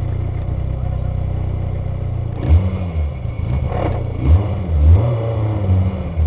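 Peugeot 106 rally car's four-cylinder engine idling, heard inside the cabin, then revved in several short throttle blips that rise and fall from about halfway through.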